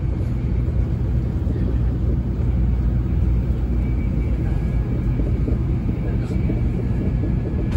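Running noise inside a motored car of a JR Central N700 series 2000-subseries Shinkansen at speed: a steady, heavy rumble of wheels on rail and air around the body. Faint thin high tones, typical of the traction inverter and motors, come in about halfway.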